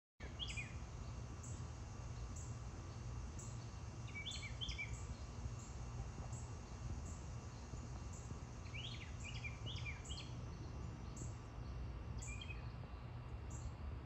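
A small bird chirping in four short clusters of three or four quick, falling notes, over a steady low rumble of background noise, with faint high ticks about once a second.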